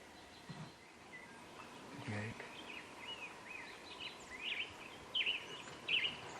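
Wild birds singing outdoors: quick, varied whistled phrases that start about two seconds in and grow louder toward the end. A couple of brief low sounds come about half a second and two seconds in.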